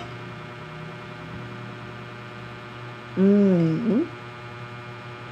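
Steady electrical hum, with a short vocal sound from a woman, a bending voiced 'mm'-like utterance, about three seconds in.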